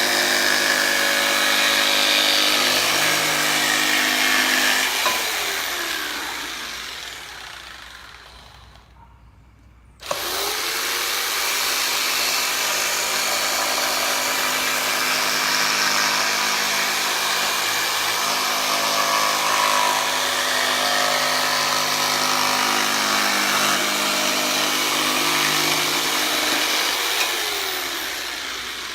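Electric jigsaw cutting through a wooden door hanger. Its motor runs steadily, then is released about five seconds in and spins down with a falling whine. It starts again abruptly a few seconds later, cuts steadily, and spins down once more near the end.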